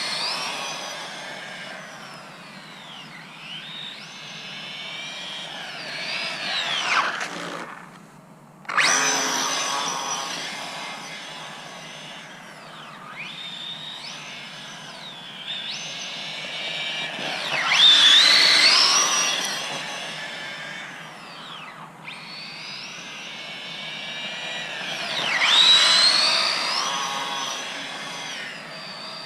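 Small electric motor of a mini RC truck whining, its pitch rising and falling again and again with the throttle. It cuts out briefly about eight seconds in and surges loudest twice later on.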